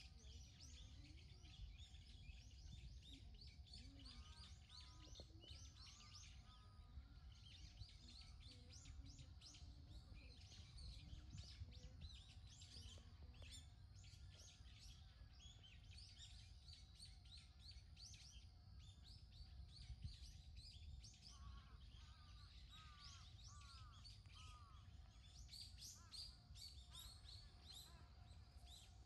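Faint chorus of small birds chirping and calling without pause, with runs of lower arching calls twice, over a low background rumble.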